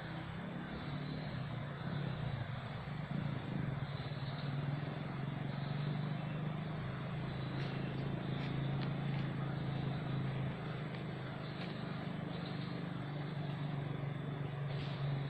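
A steady low engine-like hum with an even hiss behind it, and a few faint clicks in the second half.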